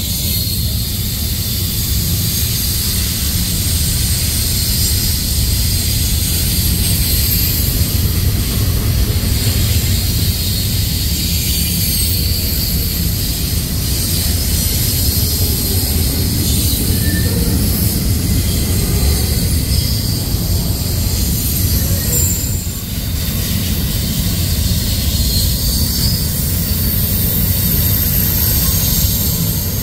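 BNSF double-stack intermodal freight train rolling past: a steady low rumble of steel wheels on rail, with a continuous thin, high-pitched wheel squeal over it.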